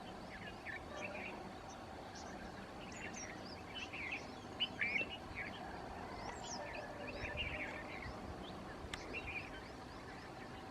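Small birds chirping: many short, quick chirps overlapping one another, busiest in the middle, over a steady background noise.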